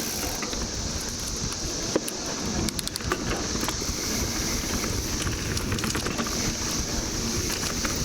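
Mountain bike ride on a dirt trail: a steady low rumble of tyres and wind on the microphone with scattered clicks and rattles, most of them about two to four seconds in. Over it runs the steady high drone of a 17-year periodical cicada chorus.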